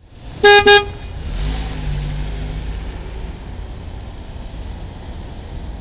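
Two short honks of a vehicle horn, then a road vehicle's engine running with a steady low rumble.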